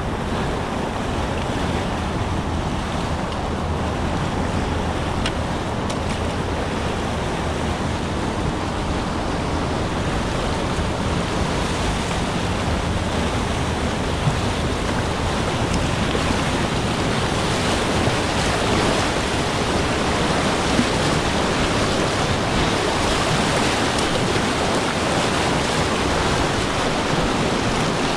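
Rushing river water, a steady noise that grows slightly louder toward the end.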